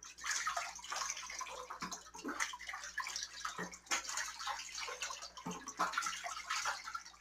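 A goose dabbling and nibbling in shallow bathtub water, its bill making small irregular splashes and clicks as it forages for floating kale.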